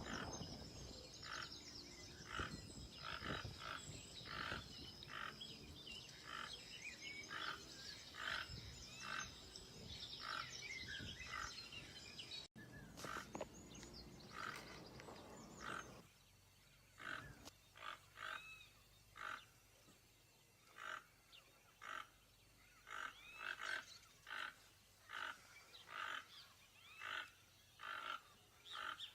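Toucan calling, a short croaking call repeated in a steady series, a little faster than once a second. A steady high whine runs behind the calls through the first half.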